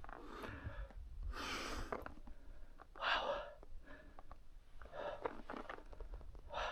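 A hiker breathing hard from the climb: heavy, hissing breaths about every one and a half to two seconds, over a low rumble of wind on the microphone.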